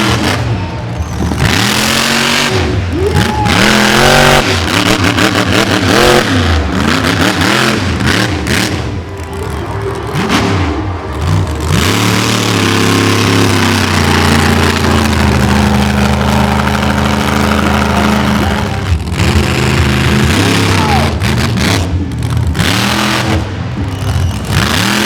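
Monster truck engine revving hard, its pitch climbing and falling again and again as the throttle is worked, with a longer steady high-rev run in the middle.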